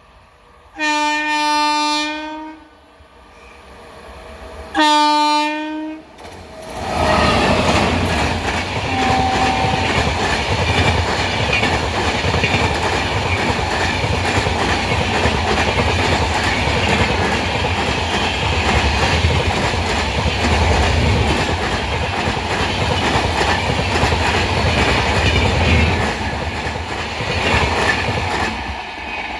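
An Indian Railways passenger train sounds two horn blasts a few seconds apart. It then passes at speed, a loud steady rumble with the wheels clattering over the rail joints, which eases off near the end.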